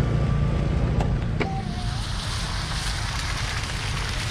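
Vehicle engine running steadily with wind buffeting the microphone; a hiss of wind or wet road noise grows from about one and a half seconds in.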